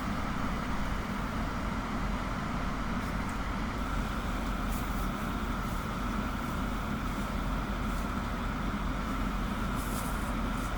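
Steady vehicle engine and road rumble, unchanging throughout, with no distinct events.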